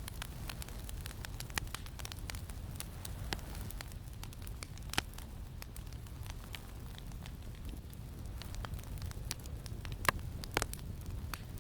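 Campfire crackling, with scattered sharp pops, the loudest about halfway through and twice near the end, over a steady low rumble of wind.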